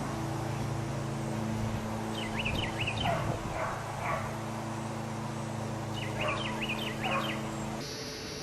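A bird calling twice, each time a quick run of rising-and-falling chirps, over a steady low motor hum that stops shortly before the end.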